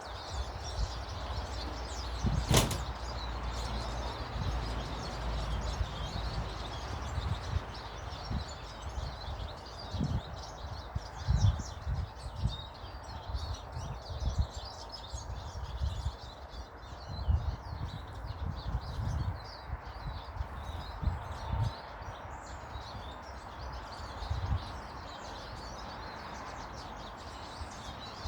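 Small garden birds chirping and twittering continually, with low irregular thumps and rumble underneath and one sharp knock about two and a half seconds in.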